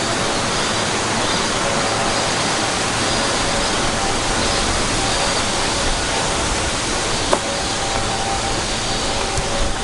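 Steady rushing of flowing water, with one sharp click a little past seven seconds in.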